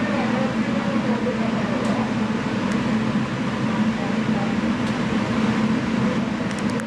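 Electric train running on the line, heard from inside the car: a steady rumble of wheels and motors with a faint whine.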